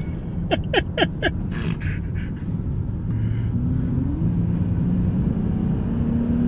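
Truck driving on the road: steady engine and road rumble, with the engine pitch climbing from about three seconds in as it accelerates. Four short falling squeaks sound about a second in.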